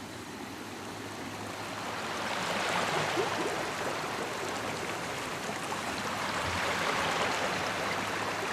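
River water flowing over rocks, a steady rushing that grows louder about two seconds in.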